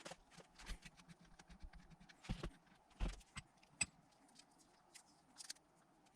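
Faint, irregular metal clicks and knocks from hand-tapping a tapered 1/8 BSPT thread into a part clamped in a vise, as the tap and a spanner are worked and shifted. A couple of duller knocks come a little past two and three seconds in.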